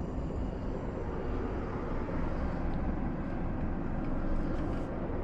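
Lorry running, a steady low engine rumble with road noise, getting a little louder about halfway through.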